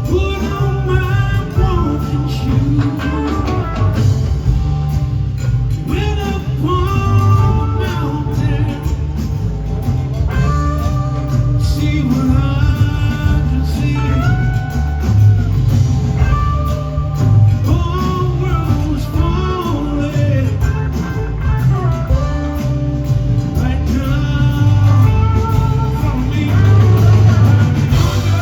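Live blues-rock band playing an extended jam, with lead lines gliding up and down in pitch over steady bass and drums.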